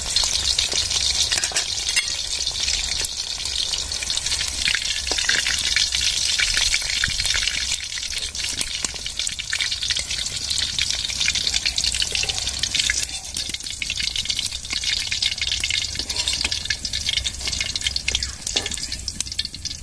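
Marinated chicken pieces deep-frying in hot oil in an aluminium kadai: a steady, dense crackling sizzle, thinning somewhat in the second half, with occasional clicks and scrapes of a metal slotted spoon against the pan as the fried pieces are lifted out.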